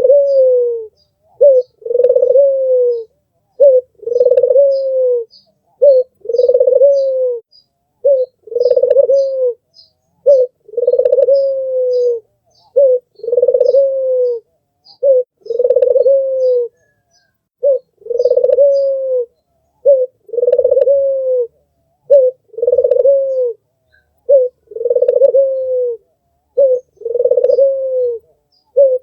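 Albino puter (white Barbary dove) cooing over and over, one phrase about every two seconds: a short note, then a longer coo that dips at the end. Faint high chirps of small birds sound in the background.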